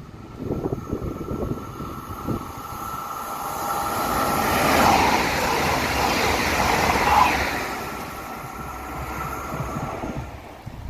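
Double-deck regional electric train passing at speed: the rushing of wheels and air builds over a few seconds, is loudest in the middle, then fades away as the train recedes. Wind buffets the microphone throughout.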